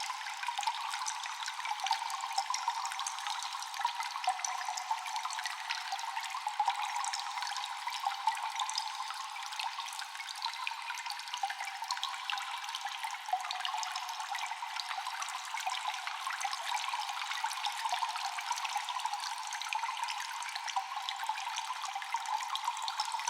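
Continuous dripping and trickling water echoing in a cave, with many drops falling in quick, irregular succession.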